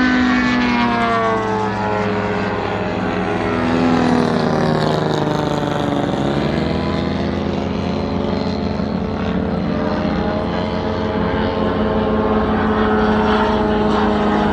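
Moki radial engine of a large-scale RC Corsair running in flight with its propeller. The pitch falls, swings up and back down about four to six seconds in, then holds steady as the plane passes and turns.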